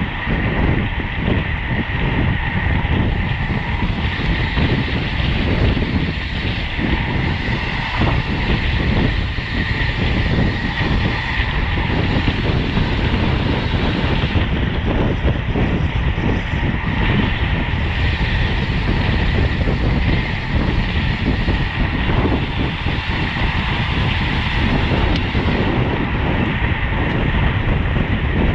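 Steady rush of wind and road noise from a road bike racing at speed, with the low rumble of tyres and drivetrain on the road.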